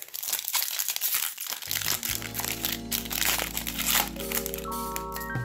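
A foil trading-card pack wrapper crinkling in the hands as it is opened. About two seconds in, background music starts with held chords and a low bass under the crinkling.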